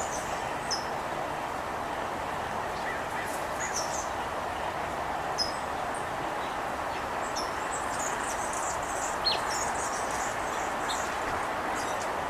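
Small birds giving short, high chirps here and there over a steady outdoor background hiss.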